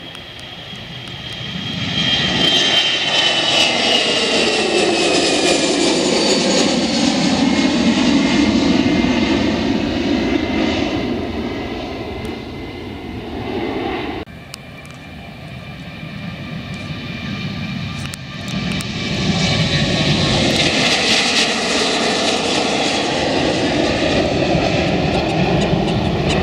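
Jet airliners taking off and passing at full take-off thrust: engine roar with a high fan whine that slides down in pitch as each one goes by. The first cuts off suddenly about halfway through, and a second jet rises to the same level soon after.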